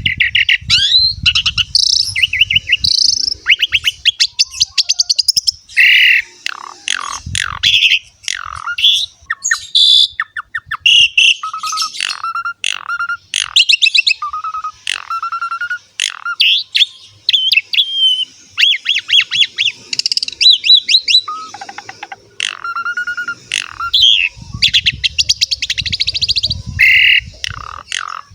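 Asian pied starling (jalak suren) singing nonstop: a rapid, varied run of whistles, chattering trills and repeated notes, full of mimicked fills.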